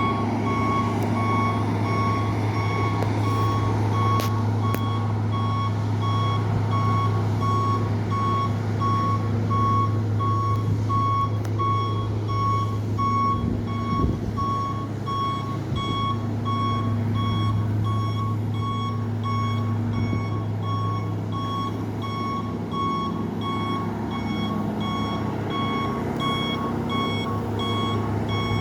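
Water truck's reversing alarm beeping in an even, steady rhythm over the steady hum of the truck's engine running.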